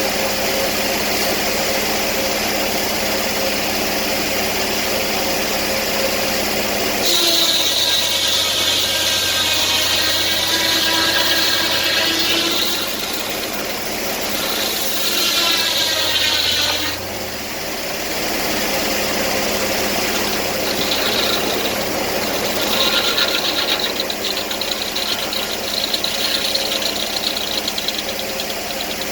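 Sawmill engine running steadily. About seven seconds in, a loud high-pitched whine joins it for some ten seconds, with a short break in the middle, as the saw cuts; a fainter whine with fast ticking comes back in the last third.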